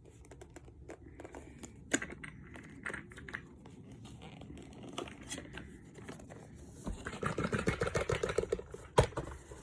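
A boxed car air freshener being handled and shaken to work it out of its packaging: scattered scrapes and clicks of cardboard and plastic, a busier stretch of rattling near the end and one sharp click just before the end.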